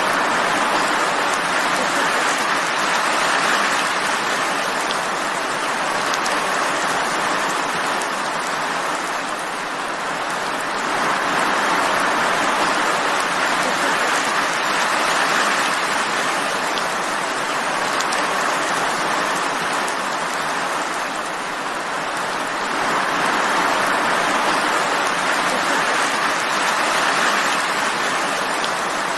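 Steady rainfall, a dense even hiss that swells and eases gently about every ten seconds.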